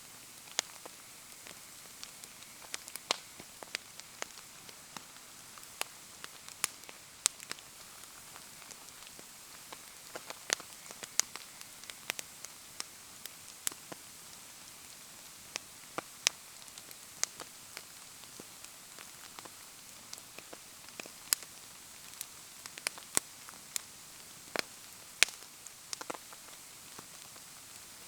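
Wood bonfire crackling in the rain: a steady hiss of rainfall with sharp, irregular pops and snaps scattered throughout.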